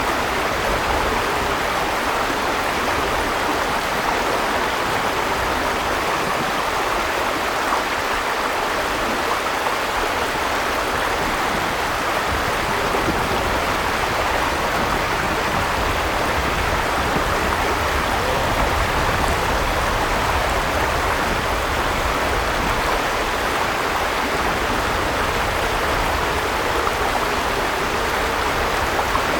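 Steady rush of a flowing river, an even wash of water noise with a low rumble underneath.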